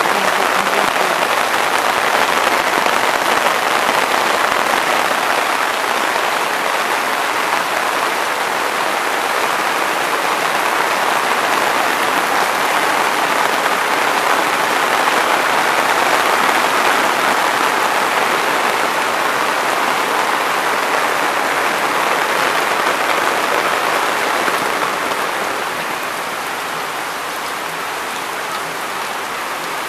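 Heavy rain pouring steadily and splashing into standing floodwater, a dense even hiss. It softens slightly near the end.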